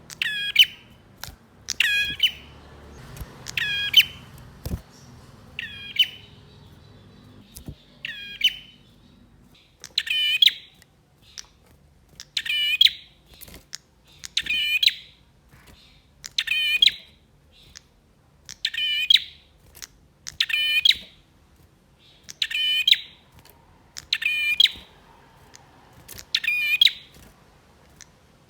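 Male prinia (prenjak) calling in an excited, persistent run: short, sharp, piercing chirps repeated about every two seconds, some of them doubled.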